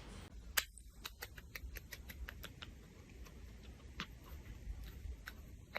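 Faint, irregular light clicks and taps, about a dozen over several seconds, the sharpest one about half a second in.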